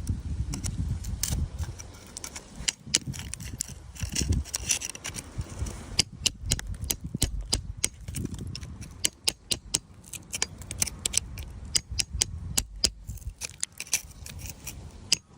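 Stones and crystal pieces clinking and scraping against each other as they are dug out and handled: a quick, irregular run of sharp clicks, with low rumbling handling noise in the first half.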